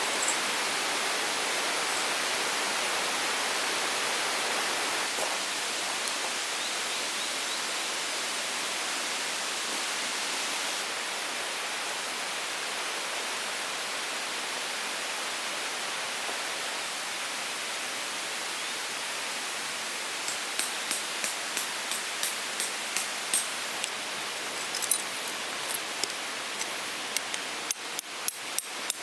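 Tent pegs being hammered in: a run of light, evenly spaced taps about two a second in the last third, then louder, sharper strikes near the end, over a steady rushing background noise.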